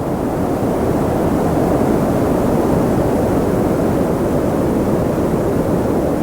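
Steady wind noise for sleep: a dense, even rushing that holds at one level, with most of its weight in the low middle.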